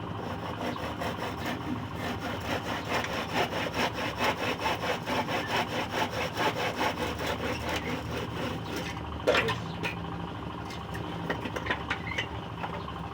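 Hand saw cutting through a board of scrap wood in quick, even back-and-forth strokes, about four a second, which stop after about eight seconds. A single sharp knock follows about a second later, then a few light clicks.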